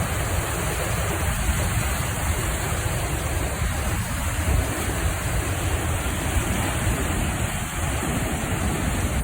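Floodwater of the Mississippi River rushing through the Coon Rapids Dam at record-high water, the turbulent flow making a steady, even rushing noise with a heavy low rumble.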